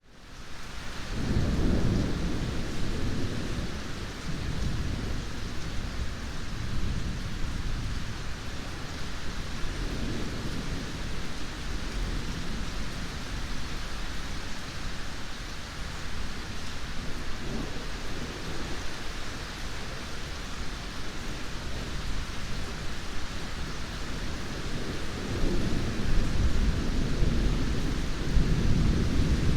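Steady heavy rain with rolling thunder. It fades in over the first second. Low rumbles swell about a second in and twice more through the middle, and a louder roll builds near the end.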